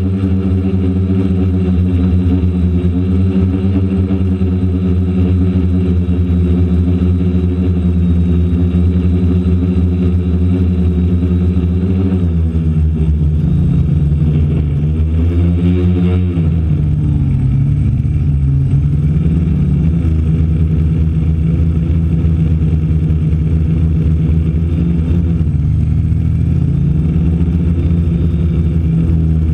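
DJI Flame Wheel F450 quadcopter's brushless motors and propellers running with a loud, steady buzzing hum, heard from a camera mounted on the frame. Around the middle the pitch rises and falls several times as the motor speeds change, then settles again.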